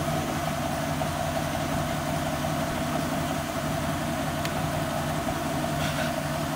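The 1989 Mercury Grand Marquis's 5.0-litre V8 running steadily through its dual exhaust, with an even, unchanging note.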